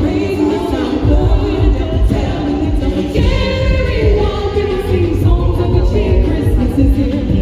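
Group of voices singing over loud accompaniment with a heavy bass.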